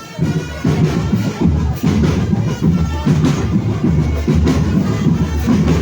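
Marching drum band playing a steady beat, bass drums pounding with snare and other percussion over them.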